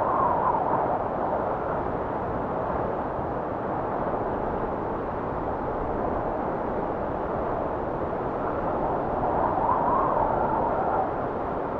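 Blizzard wind blowing steadily with a deep rumble. A gust whistles, rising and falling in pitch, right at the start and again about ten seconds in.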